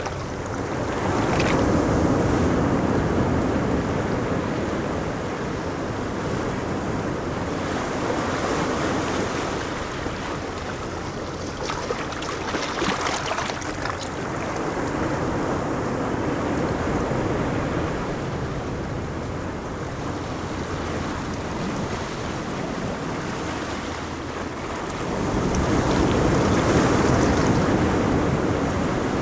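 Ocean waves breaking and washing up a beach, the surf swelling and easing every few seconds, with wind buffeting the microphone.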